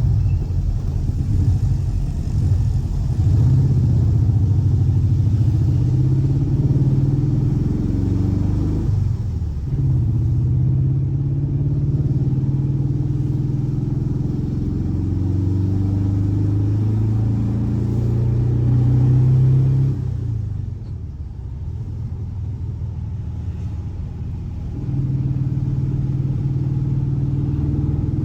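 Air-cooled 1584cc flat-four boxer engine running with a deep, even beat, its pitch and load shifting slowly. It dips briefly about nine seconds in, falls back to a quieter, lower run about twenty seconds in, then picks up again near the end.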